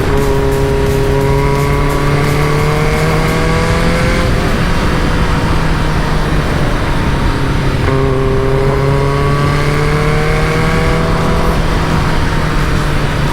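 Caterham Super Seven engine pulling under acceleration, its pitch climbing steadily twice, with a break about halfway through where it eases off before pulling again.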